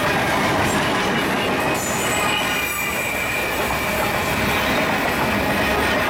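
A freight train of covered hopper cars rolling past close by: the steady rumble and clatter of steel wheels on rail. A thin, high wheel squeal rises over it about two seconds in.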